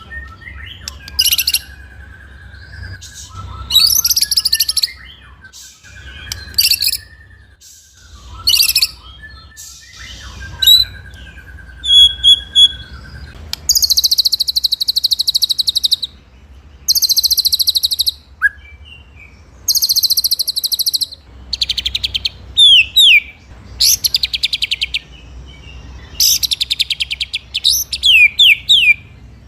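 White-rumped shama (murai batu) singing in short phrases with brief pauses. The phrases are fast, high rattling trill rolls, sharp downward-sweeping 'shot' notes, and a few lower, longer whistles.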